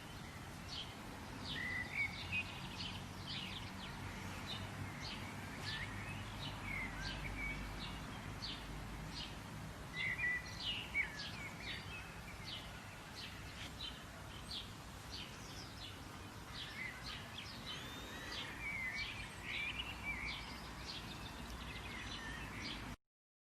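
Several small birds singing: rapid short high chirps repeating about twice a second, mixed with twittering, warbled phrases, over a low steady background rumble. It starts abruptly and cuts off suddenly near the end.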